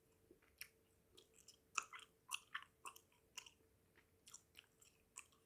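Close-miked chewing of bubble gum: quiet, irregular wet smacks and clicks of the mouth, several a second.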